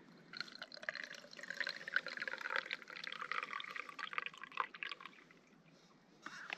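Liquid being poured into a container, a gurgling, splashing pour lasting about five seconds that stops shortly before the end.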